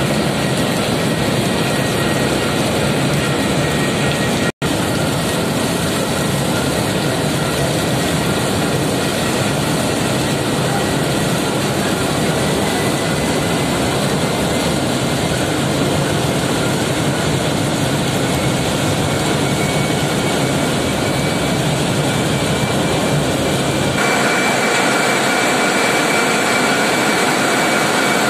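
A passenger launch's diesel engines running steadily in the engine room: a loud, dense mechanical din with a few steady whining tones. The sound cuts out for an instant about four and a half seconds in, and shifts near the end, with less low rumble and brighter tones.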